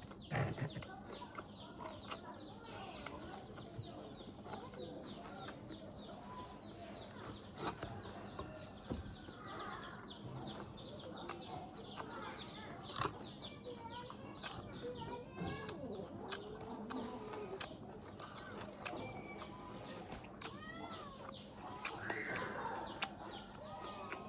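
Chickens clucking on and off, with many rapid high chirps, most dense over the first half.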